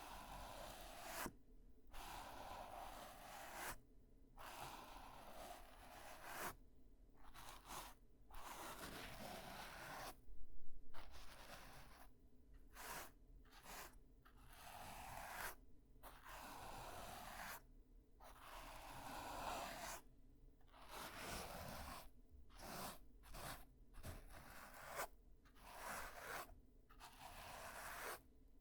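Ear-cleaning scraping and rubbing close to the microphone: scratchy strokes of a second or two, one after another, with brief pauses between them.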